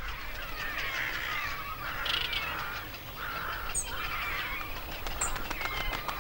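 A flock of waterbirds calling, many short, overlapping calls at once, with a few high chirps above them.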